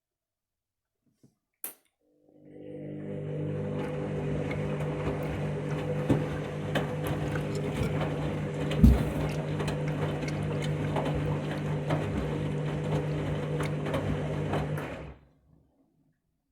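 Washing machine running: a click, then its motor hums steadily for about thirteen seconds with a few knocks from the drum, loudest about nine seconds in, before cutting off suddenly.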